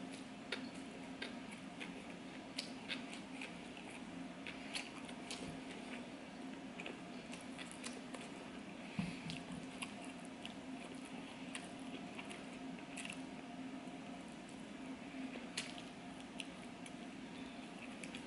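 Close-miked chewing of sushi rolls: soft, wet mouth sounds with many small clicks scattered throughout.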